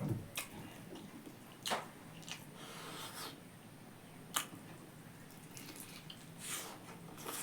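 Close-up eating sounds of someone chewing pork: wet, squishy chewing and smacking, broken by a few sharp clicks.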